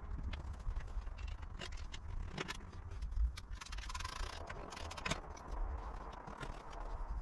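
Faint scattered clicks and scrapes over a low rumble, with a brief hiss about four seconds in.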